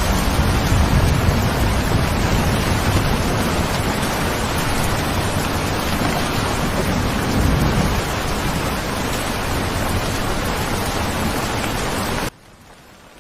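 Steady heavy rain, an even hiss with a low rumble underneath that eases about eight seconds in. About twelve seconds in the sound abruptly drops to much quieter rain.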